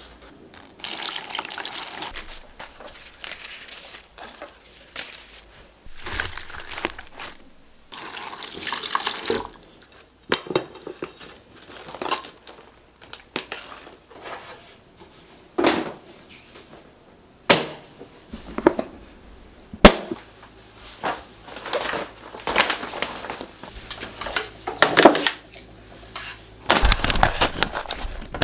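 Kitchen work sounds: repeated short bursts of water running from a tap, with clinks and knocks of dishes and containers.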